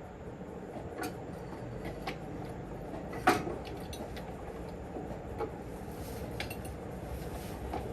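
A series of light metallic clinks and taps, metal tools or parts knocking together, the loudest about three seconds in.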